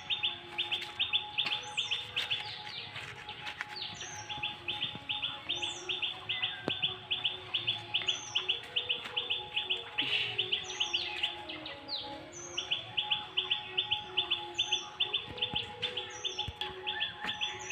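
Birds chirping: a fast, steady run of repeated short chirps, about six a second, with brief breaks, and higher short calls every second or two.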